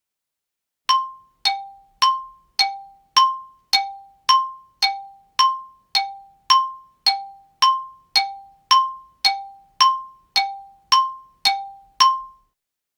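Xylophone played on two alternating notes, high then low, about two strikes a second, each note ringing briefly. About twenty strikes, starting about a second in and stopping near the end.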